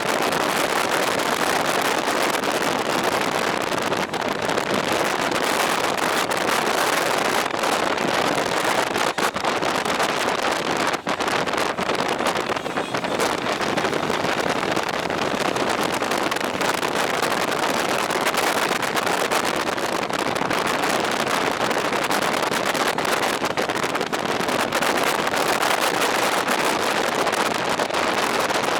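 Steady rush of wind over the microphone of a moving two-wheeler, an even noise with no clear engine note.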